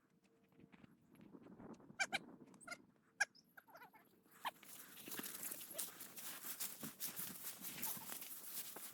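A dog, the German shorthaired pointer, gives a few short high whines or yelps about two to three seconds in. From about halfway, dry tallgrass rustles and crackles steadily as it is pushed through on foot.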